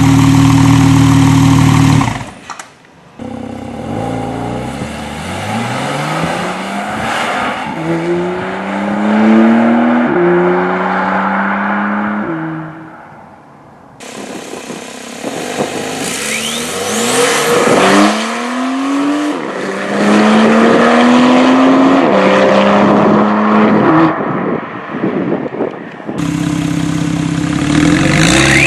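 Porsche 991.2 911 exhaust under hard acceleration, the engine note climbing through the gears with quick drops at each upshift, in several separate runs split by abrupt cuts. It opens with about two seconds of a loud, steady engine note.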